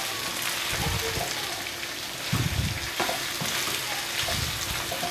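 Chicken pieces with chopped onion, green chilli and coriander leaves sizzling in a non-stick wok over medium flame, with several scraping strokes of a spatula stirring them. The onions and coriander are being sautéed until soft.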